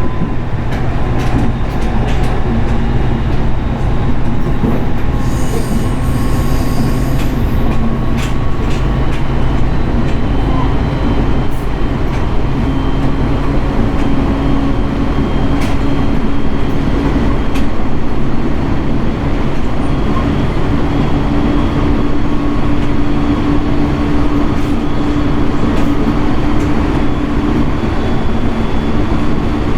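Running sound inside a 701 series electric multiple unit travelling between stations: steady wheel-on-rail and motor noise. A brief high squeal comes about five seconds in, and a steady low hum sets in about twelve seconds in.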